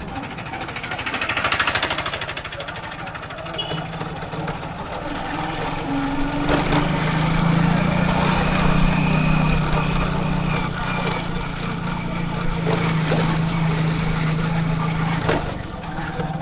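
Motorcycle engine running at a steady pace while riding, with another vehicle swelling past in the first two seconds.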